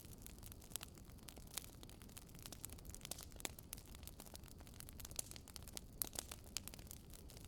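Wood fire crackling in a fireplace: irregular sharp snaps and pops over a faint low hiss, one of the sharpest about six seconds in.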